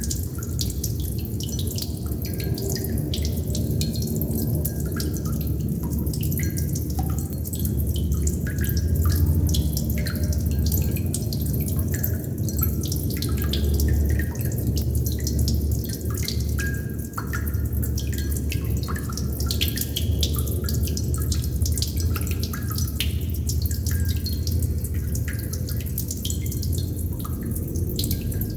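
Water droplets dripping in a quick, irregular patter of many small drips over a steady low wash of background noise.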